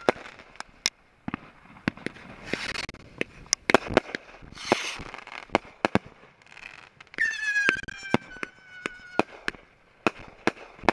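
Consumer fireworks going off: many sharp bangs and pops at uneven spacing, with short hissing bursts. About seven seconds in, a whistling firework sounds for about two seconds, falling slightly in pitch.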